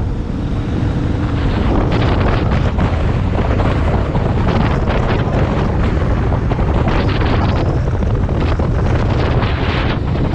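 Loud, steady wind buffeting the microphone, rumbling and fluttering throughout.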